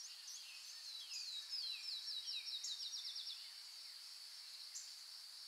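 Faint outdoor birdsong: a bird sings a run of quick falling notes, about four or five a second, between about one and three and a half seconds in, over a steady high-pitched hum.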